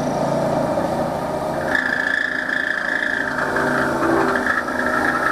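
Wood lathe running while a cloth rubs beeswax onto the spinning wooden cup, a steady machine hum with friction. About two seconds in the pitch shifts to a higher steady whine.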